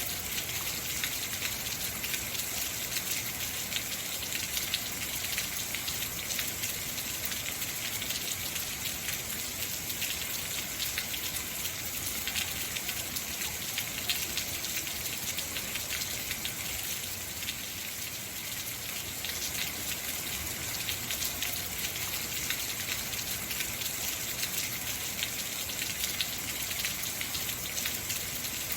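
Heavy rain falling steadily, a dense hiss of drops hitting surfaces, with a brief slight easing about two-thirds of the way through.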